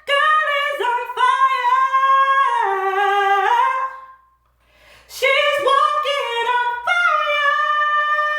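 A woman singing unaccompanied in a high register, with no clear words: a run of sliding notes for about four seconds, a short breath, then a second phrase that settles on a long held note.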